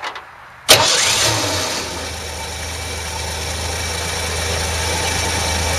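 Old Ford's engine started by bridging the terminals of its fender-mounted remote starter solenoid. A sudden loud start comes less than a second in, and the engine catches at once, runs fast briefly, then settles into a steady idle.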